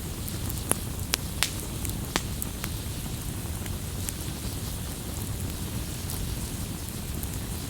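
Wood fire burning, with a steady low noise of the flames and sharp crackling pops from the burning wood. Several pops come in the first two seconds, then they grow fewer and fainter.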